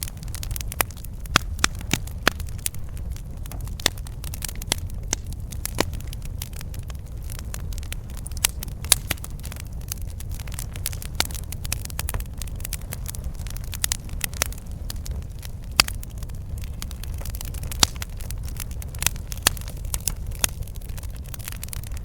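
Campfire crackling, with frequent sharp, irregular pops over a steady low rumble.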